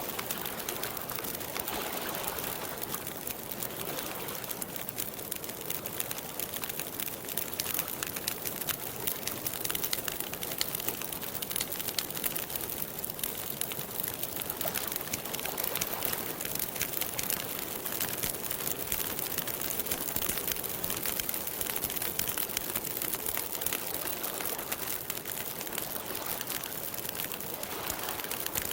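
Campfire burning, with a steady dense crackle of small pops and snaps from the burning wood.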